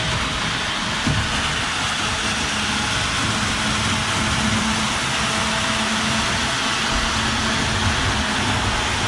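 Model steam locomotive running on the layout's track: a steady rolling rumble and hiss with a faint, even motor hum.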